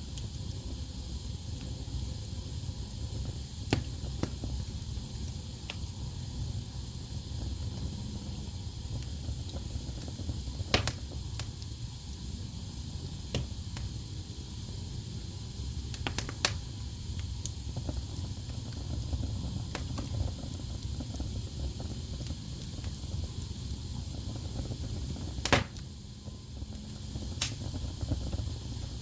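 Wood fire burning in a fireplace: a steady low rumble of flames with scattered sharp crackles and pops from the burning logs, the loudest pop near the end.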